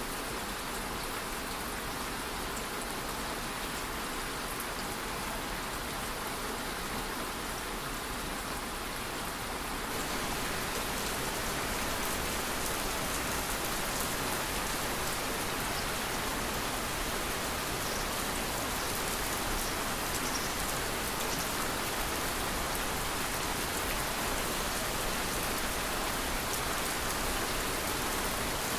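Steady rain falling, a dense even patter of drops; about ten seconds in it grows a little louder and brighter.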